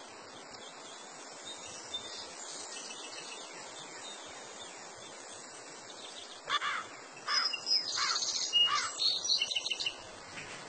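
Birds calling: a run of short chirps and falling whistles between about six and ten seconds in, over a steady background hiss.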